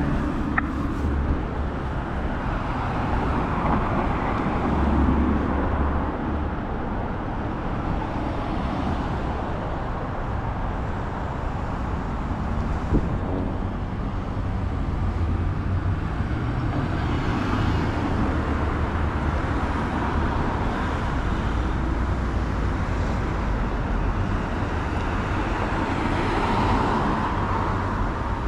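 Road traffic on a city street: a steady rumble of cars, with vehicles passing and swelling louder a few times. There is a single short click about halfway through.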